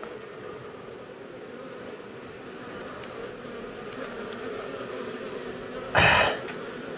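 Many honey bees buzzing in a steady, dense hum around an opened wall cavity holding an established colony. About six seconds in, a short loud burst of noise, a brief thump or scrape, cuts over the hum.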